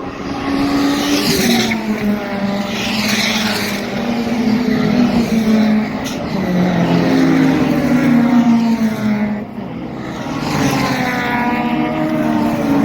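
Racing cars going past at speed on a circuit, their engines rising and falling in pitch as they pass. Several cars go by, about a second in, around three seconds and again near the end.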